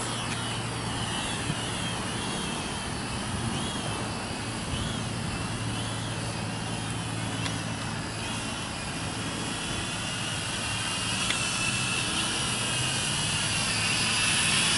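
Small four-propeller R/C drone's propellers whining overhead, the pitch wavering up and down as the motors speed and slow. It gets louder toward the end.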